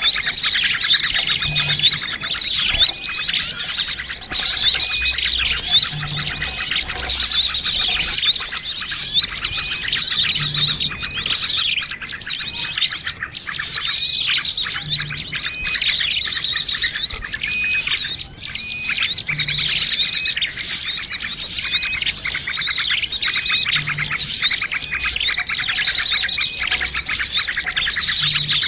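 Bird-lure recording of a dense, noisy chorus of many small birds chirping and twittering rapidly and without pause. It is the kind of combined call played to draw small wild birds in for trapping.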